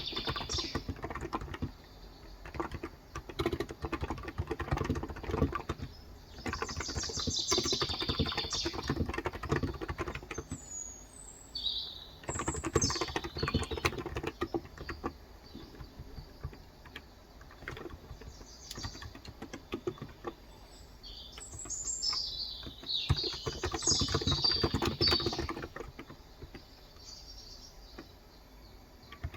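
Typing in uneven bursts with pauses on a Cox Endeavor electrostatic capacitive (Topre-style) tenkeyless keyboard with 35 g switches, a rapid run of soft key clicks. Small birds chirp outside several times, in quick high twittering phrases.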